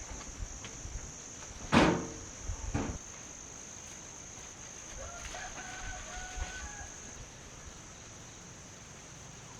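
A rooster crowing, one call broken into several short pitched segments about halfway through, over a steady high whine. A sudden loud sound about two seconds in is the loudest thing, with a smaller one a second later.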